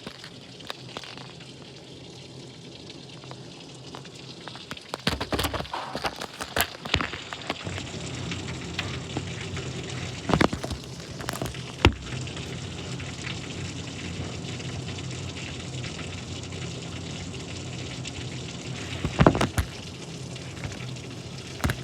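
Rain falling with a steady hiss, broken by a run of sharp taps about five to seven seconds in and single louder knocks later on. A low hum joins about eight seconds in.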